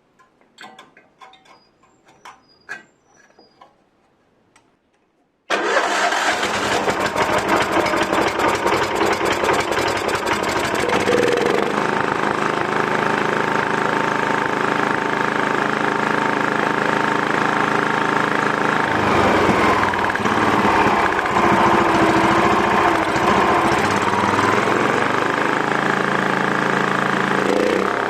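A few faint clicks and knocks, then about five and a half seconds in the Yanmar Je-80HE snowblower's engine comes on suddenly and runs steadily, now running on its replacement carburetor. Its pitch shifts about two thirds of the way through and again near the end.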